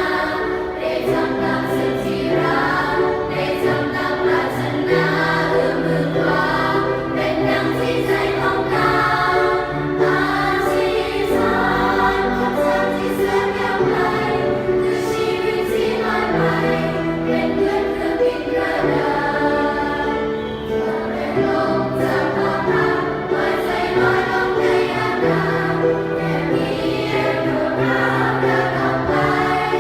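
Choir singing a pop song in a choral arrangement, several voice parts in harmony over a steady bass line, without pause.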